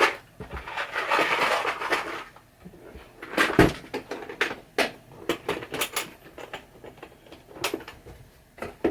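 Rummaging through boxes of screws: a rattling, shuffling stretch in the first two seconds, a sharp clack about three and a half seconds in, then scattered small clicks and taps of screws and containers.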